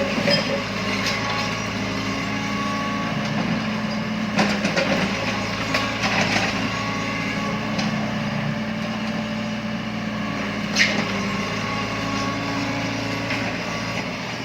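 Heavy machinery's diesel engine running steadily, with a few sharp knocks and clanks, the loudest about eleven seconds in.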